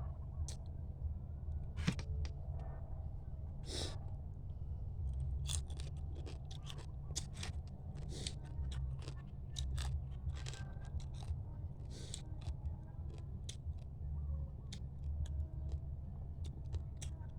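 Mud crab being eaten: many short sharp cracks and crunches of shell being bitten and broken, with chewing, over a steady low hum.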